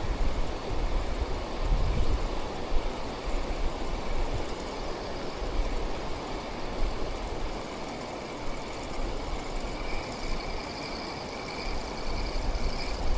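Steady rush of water pouring over a weir, with wind buffeting the microphone in low gusts during the first couple of seconds.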